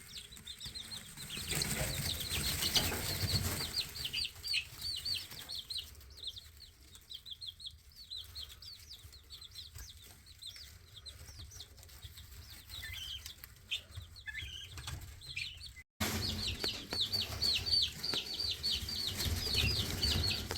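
Baby guinea keets and bantam chicks peeping in rapid, repeated high chirps, with bursts of wing flapping and scrambling as they flutter up inside a galvanized tank brooder. The peeping thins out in the middle and picks up again near the end.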